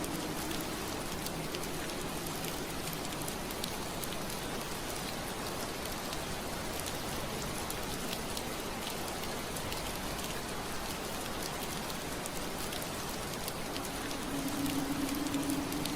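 Steady rain on a window pane: an even hiss dotted with many small drop ticks. A low steady hum fades out at the very start and comes back about fourteen seconds in.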